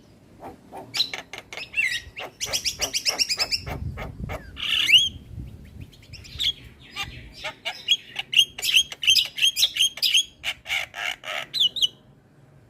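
Javan myna singing: a fast, varied stream of sharp clicks, squawky chatter and rising whistled notes, with a run of quick repeated notes in the second half.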